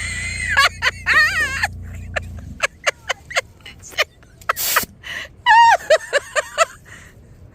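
Air pump running with a steady low hum as it inflates an inflatable figure, stopping about two and a half seconds in. High wavering squeals follow around one second and again near six seconds, with a string of sharp clicks in between.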